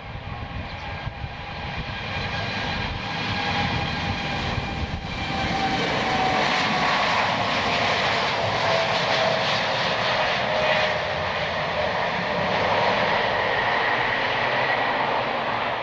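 Jet engines of a Boeing 787-8 Dreamliner (Rolls-Royce Trent 1000) passing. The noise grows louder over the first six seconds and then holds, with a whine of several steady tones that slowly fall in pitch.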